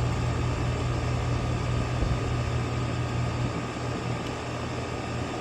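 Steady low hum of running air-conditioning equipment, with a faint constant higher tone over it. The low hum eases briefly a little past the middle.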